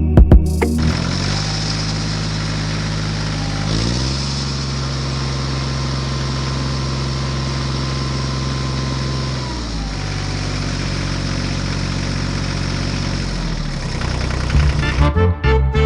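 Tractor engine running steadily, its pitch stepping up about four seconds in and dropping back near ten seconds. A few sharp knocks come just before it starts.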